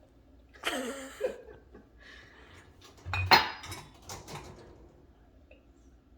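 Dishes and cups clattering and clinking as they are lifted out of a dishwasher rack and set down, in a few separate knocks, the loudest one sharp, about three seconds in.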